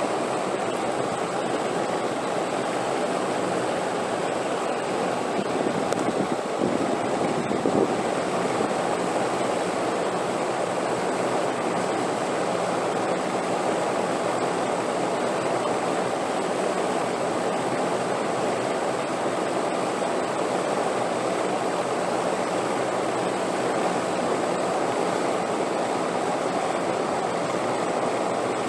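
Steady rushing wind, an even noise with a slight swell about six to eight seconds in.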